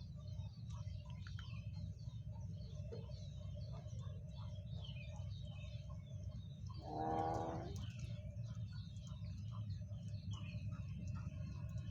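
Birds chirping and tweeting in many small, scattered calls over a steady low hum, with one louder pitched call lasting about a second, about seven seconds in.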